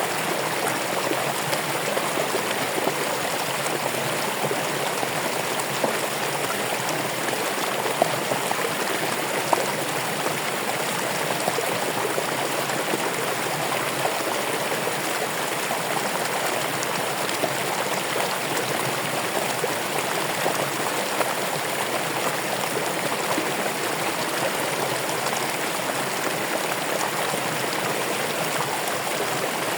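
Running water flowing steadily, an even rush with a few brief, louder splashes here and there.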